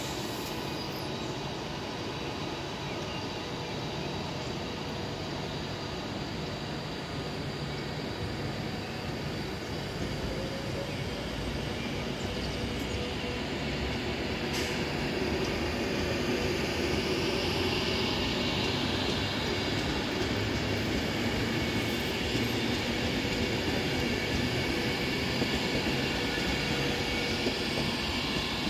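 Passenger train running slowly along the line: a steady rumble of wheels and running gear that builds in loudness over the second half. A high squeal from the wheels comes in for several seconds around the middle.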